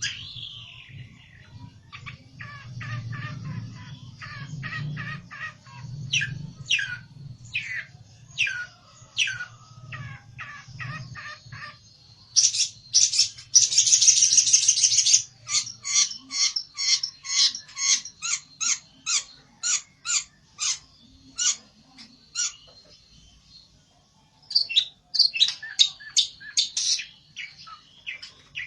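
A pelentet songbird calling agitatedly, in the manner of a bird challenging a rival: quick runs of sharp, high chirps, a harsh dense burst of song about halfway through, then rapid chirps at two to three a second, pausing briefly before starting again.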